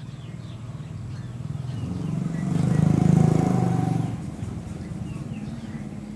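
A motor vehicle passing by: its engine grows louder to a peak about three seconds in, then fades away. Birds chirp in the background.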